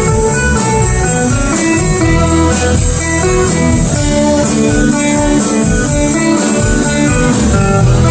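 Live band playing an instrumental passage: a guitar playing a melodic lead over bass and drums, with a steady cymbal beat.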